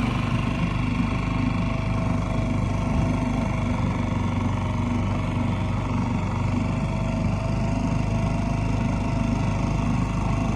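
Small outboard motor on a dinghy running steadily at an even speed.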